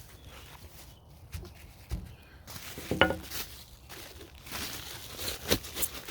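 Packing paper crinkling and rustling as a parcel is wrapped by hand, with scattered knocks, the sharpest about three seconds in.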